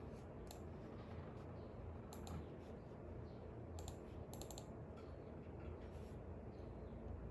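Light, sharp clicks at a study desk, a few on their own and some in quick clusters, over a steady low hum.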